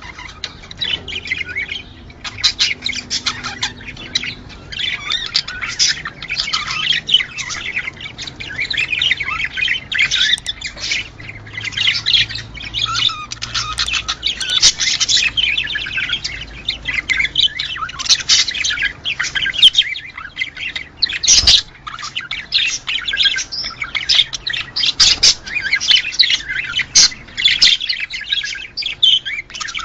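Budgerigars chattering together in a dense, unbroken stream of quick overlapping chirps and squawks.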